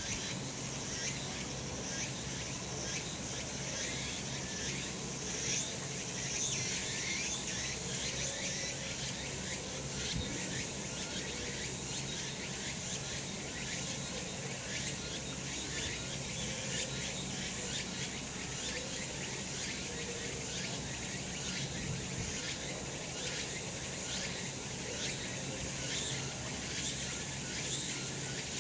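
A chorus of cicadas calling steadily in summer sunshine, a dense shrill buzzing with a fine pulsing texture that runs on without a break.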